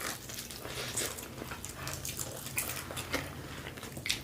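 Close-up chewing and mouth sounds of people eating pizza: a string of short, irregular wet clicks and smacks over a steady low hum.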